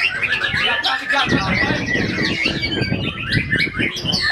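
White-rumped shama singing a fast, varied run of whistled and chattering notes. Wind rumbles on the microphone beneath the song, heavier from about a second in.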